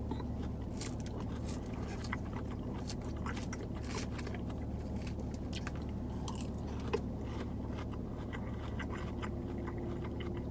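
A person chewing salad close to the microphone: moist crunching with scattered small clicks and crackles, one sharper click about seven seconds in, over a steady low hum.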